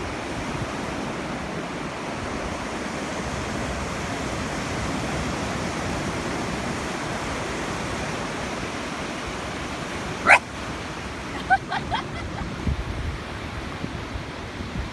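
Steady wash of waves breaking on the shore. About ten seconds in a dog barks once loudly, then gives a few shorter, quieter barks a second or so later.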